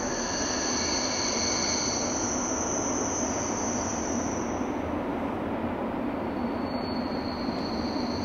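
A train rolling past on the line, with steady rolling noise and high-pitched wheel squeal. The squeal holds for the first four seconds or so, fades, and comes back near the end.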